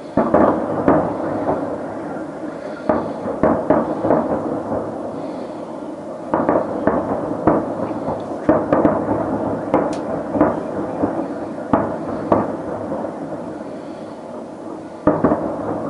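Aerial firework shells bursting: about twenty sharp booms in irregular clusters, each trailing into an echoing rumble. The loudest bursts come right at the start and again near the end.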